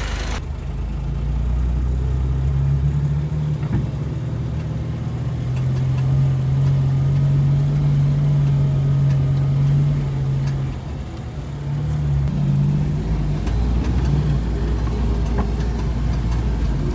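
Jeep engine running steadily at low speed while driving, a low, even drone that eases off briefly about eleven seconds in and then picks back up.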